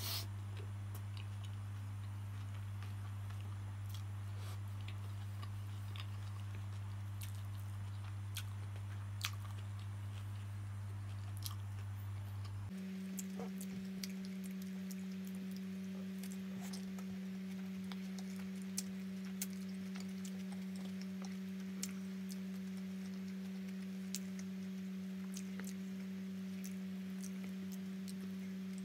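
Close-up chewing and mouth sounds of a person eating roti John, the soft egg-and-bread sandwich, with scattered small clicks, over a steady low hum that shifts to a higher pitch about halfway through.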